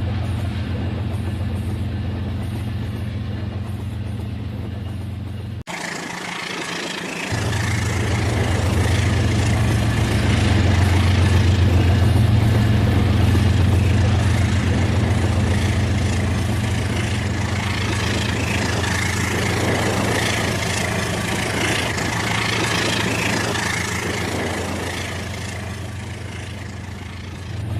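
Battery-powered toy train's motor and gearbox running, its wheels rolling on plastic track, with a steady low hum under a whirring hiss. It gets louder until about halfway through, then slowly fades as if the train moves away.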